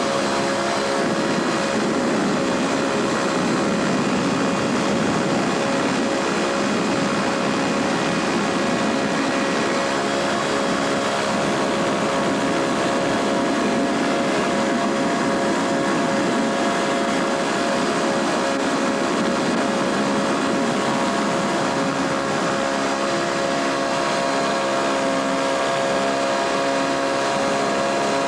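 Pterodactyl ultralight aircraft's engine and propeller running at a steady speed, a loud continuous drone with a steady hum and no change in pitch.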